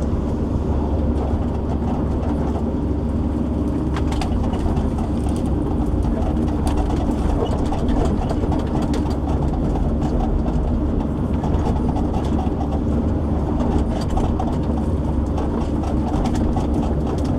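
Shovel logger's diesel engine running steadily under hydraulic load, a constant low drone.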